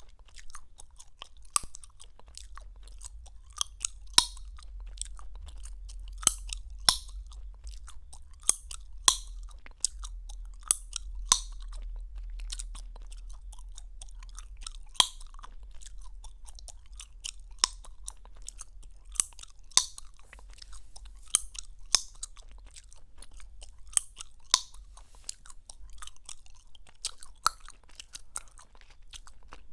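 Gum chewed close to the microphone with open-mouthed smacking: sharp, wet clicks and snaps at an irregular pace, roughly one or two a second.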